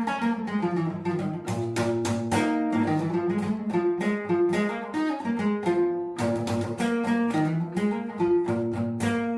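Acoustic guitar playing a tune of plucked notes, with frequent strummed chords.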